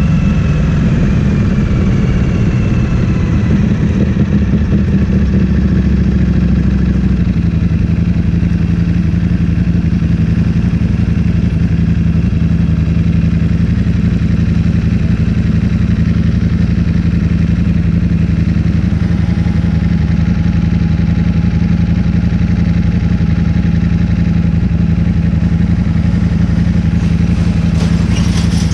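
Ducati Streetfighter V4S's V4 engine through an Akrapovic full-system exhaust, its revs falling over the first few seconds and then idling steadily. A faint steady higher tone comes in about two-thirds of the way through.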